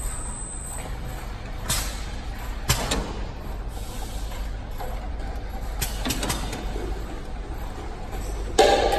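Automatic flip-type bottle washing machine running with a steady low hum, broken by several short hissing blasts of compressed air from its air-wash stage, and a louder burst near the end.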